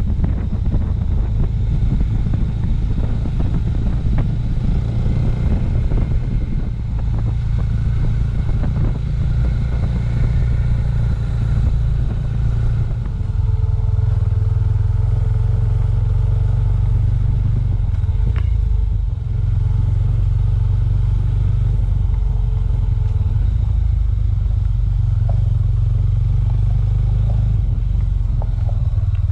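Suzuki Thunder motorcycle engine running at a steady pace while being ridden, with road rattle. It settles into a smoother, even drone about halfway through.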